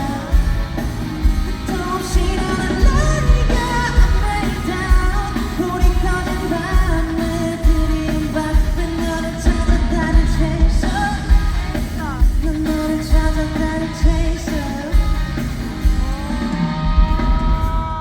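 Live pop-rock song performed in concert: a male lead vocal over a full band with a heavy, steady kick-drum beat, heard loud from the audience.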